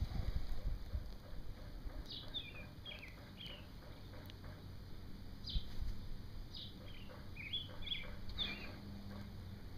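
Small birds chirping: a run of short, quick, downward-sliding chirps begins about two seconds in and keeps going. Low rumbling thumps are heard in the first second.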